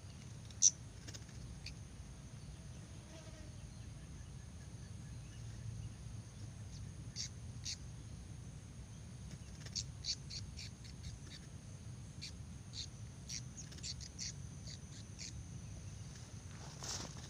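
Flowerpecker giving short, sharp, high-pitched chip calls at irregular intervals, thicker in the second half, with one louder chip about a second in, over a steady low rumble.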